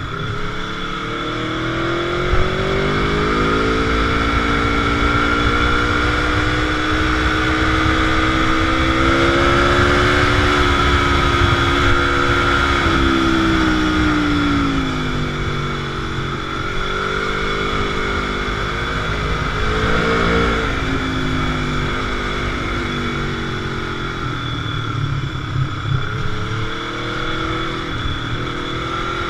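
Motorcycle engine heard from on board under steady wind rush. Its pitch climbs over the first several seconds, falls away around the middle, rises briefly again, dips, then climbs again near the end.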